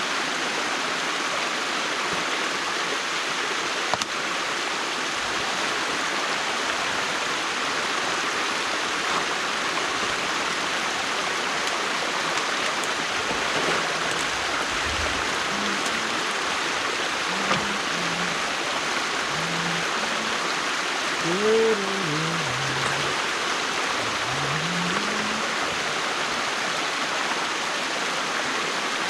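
Water rushing steadily through an opening in a beaver dam. A few faint, brief low tones come in during the second half.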